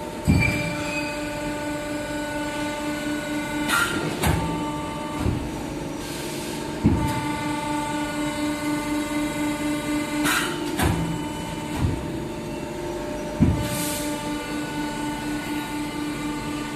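CNC bending machine running through repeated bending cycles: a steady pulsing mechanical hum with a sharp clunk every three seconds or so, about five in all.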